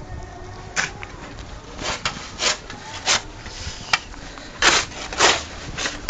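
Footsteps crunching in snow, about eight separate short crunches at an uneven walking pace, with a sharp click near the middle.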